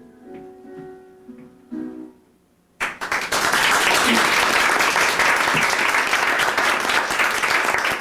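A few soft plucked-string notes close out the song, then audience applause breaks out suddenly about three seconds in and carries on loudly.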